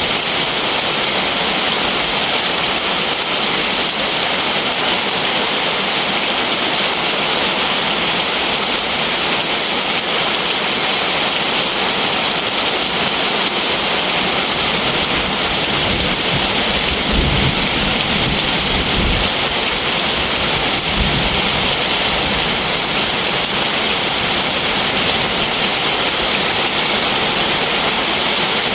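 Heavy rain falling steadily, a dense, even hiss, with a brief low rumble a little past the middle.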